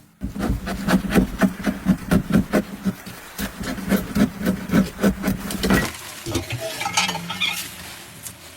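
A rapid series of knocks or strokes, about five a second, that stops about six seconds in.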